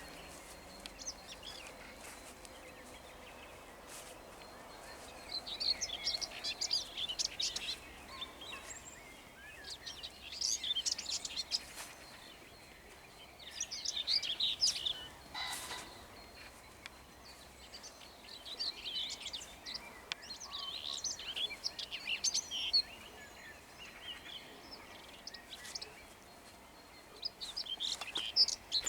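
Songbirds singing at dawn in repeated short phrases, with a common pheasant giving one short harsh crow about halfway through.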